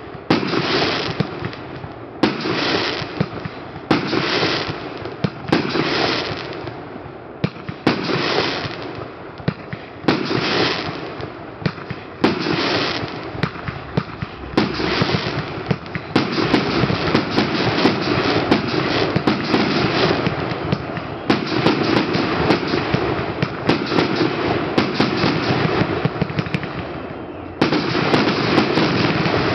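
Professional aerial fireworks display: shots bursting one after another about every two seconds, then a denser, near-continuous barrage of bursts and sharp crackling from about halfway.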